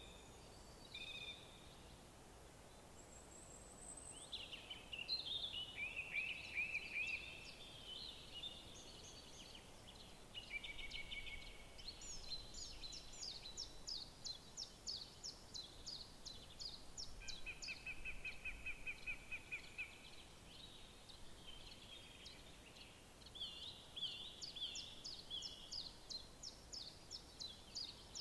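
Several songbirds singing in woodland: overlapping phrases of quick chirps, fast trills and runs of repeated notes, over a faint steady background hiss.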